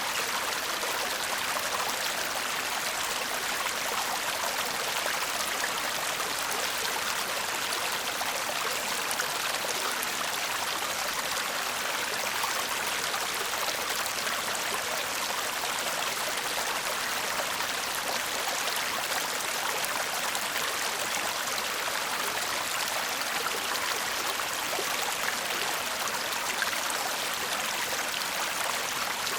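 Shallow stream babbling steadily over stones, an even rush of water with fine trickling and splashing detail.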